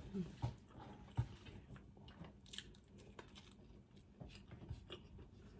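Faint, irregular chewing of a mouthful of chicken curry and rice eaten by hand, with soft mouth clicks and smacks close to the microphone.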